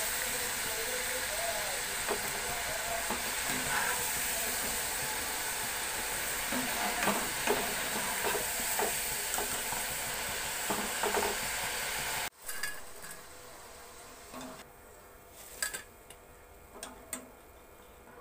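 French fries sizzling in hot oil during their second fry, with a wire spider strainer stirring them and clinking against the pan. About twelve seconds in the sizzling cuts off abruptly, leaving only a few faint clicks.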